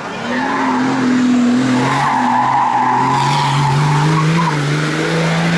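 Lancia Delta ERRE20 prototype hillclimb car under power, its engine note held and slowly climbing in pitch, with tyres squealing through a corner for a couple of seconds mid-way.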